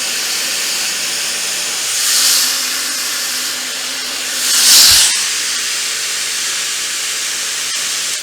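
Idoo high-speed hair dryer with its diffuser attachment blowing air in a steady hiss, swelling louder twice as it is moved through the hair.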